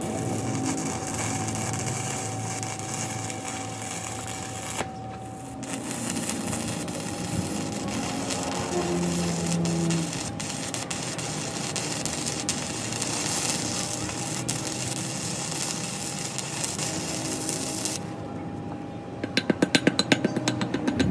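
Metalworking power-tool noise: a steady, noisy run with a constant thin tone, broken twice by short drops. Near the end it gives way to rapid, evenly spaced tapping strikes, several per second.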